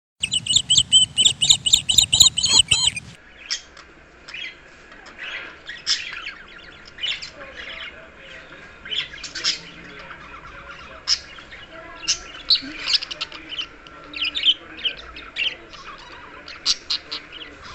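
Budgerigar chattering in a long run of short chirps and squawks. A louder, rapidly pulsing sound opens the first three seconds before the chatter takes over.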